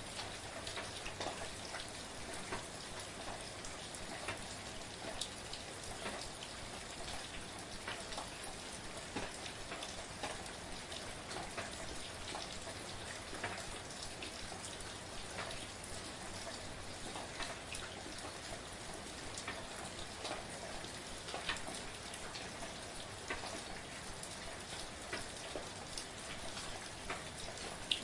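Steady, soft rain falling, with many individual drops pattering and ticking on a surface.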